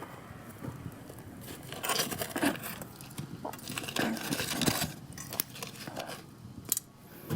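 Sweet potatoes roasting in a barbecue grill being turned with metal tongs: irregular clinks and scraping, in short busy spells about two seconds and four seconds in.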